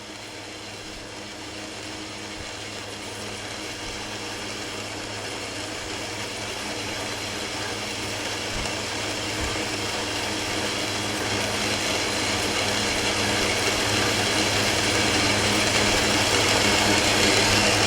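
Metal lathe running with a steady motor hum while the cutting tool takes a pass on the workpiece, the hiss of the cut growing steadily louder.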